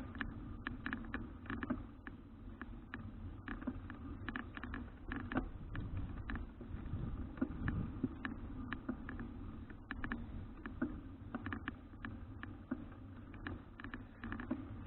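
A bicycle being ridden, a Citi Cruiser CFH700, heard through an action camera: a steady rumble of wind and road with frequent small rattles and clicks from the bike.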